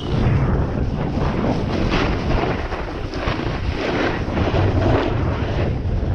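Wind rushing over a body-worn camera's microphone during a snowboard run, with the hiss of the board sliding over snow swelling and fading at each turn.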